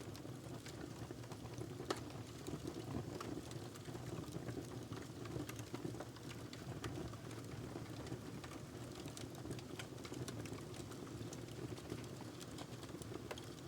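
Wood fire burning in a fireplace: a steady low rumble of flames with irregular crackles and pops from the burning log, one sharper pop about two seconds in.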